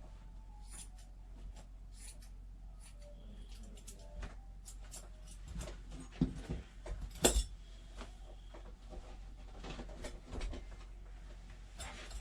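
Scattered small clicks and light handling sounds from grooming tools being used on a cat, the loudest a couple of sharp clicks about six and seven seconds in, over a faint steady low hum.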